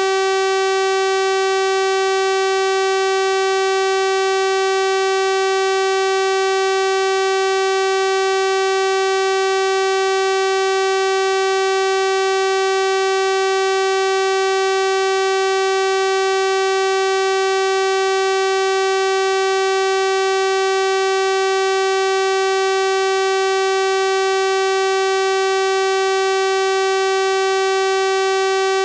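Synthesized 384 Hz sawtooth-wave tone, held steady at one pitch with a bright, buzzy string of overtones.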